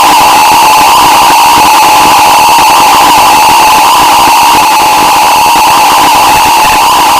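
Harsh noise music: a very loud, unchanging wall of distorted noise with a steady shrill tone held through it, like an alarm buzzing.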